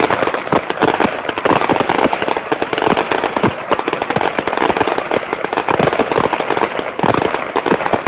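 Fireworks display going off in a dense, continuous barrage of rapid cracks and bangs.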